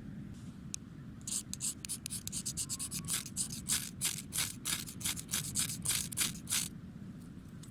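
Quick, rhythmic scraping strokes, about four a second, starting a little over a second in and stopping about a second before the end, over a steady low rumble.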